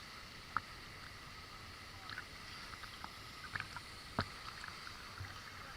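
Water splashing and dripping in short scattered bursts over a steady, faint hiss of moving water, with one sharper splash about four seconds in.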